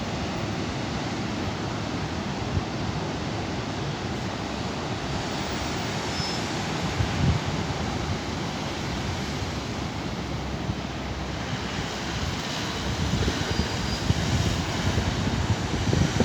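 Steady rushing noise of wind and surf, growing a little louder and gustier near the end.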